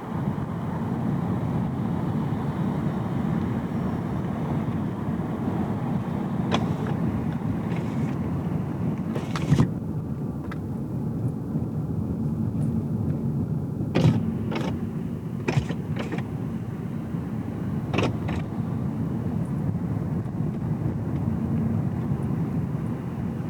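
Steady road and engine noise inside a moving car's cabin. Several short, sharp knocks or clicks come at irregular intervals, the loudest about a third and a little over halfway in.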